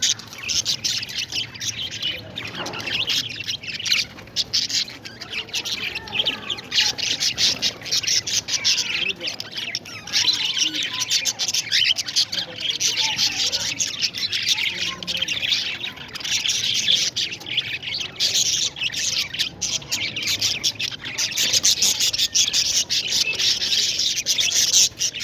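A flock of parrots chattering, a dense, continuous mass of rapid, high chirps and squawks.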